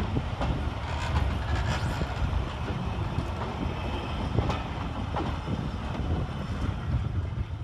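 Train moving through the station: a steady low rumble with scattered short clicks from the wheels and rails.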